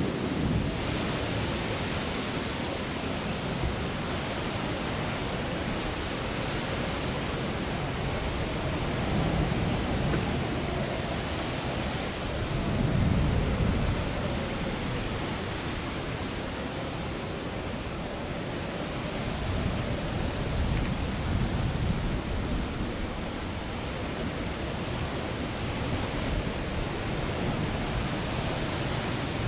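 Strong gusty wind rushing and buffeting the microphone, a steady roar of noise that swells with low rumbling gusts about ten, thirteen and twenty seconds in.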